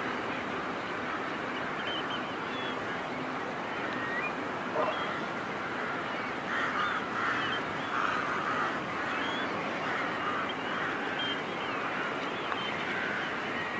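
A large flock of birds calling continuously, a dense chorus of many overlapping calls over a steady rushing hiss, growing a little thicker in the second half.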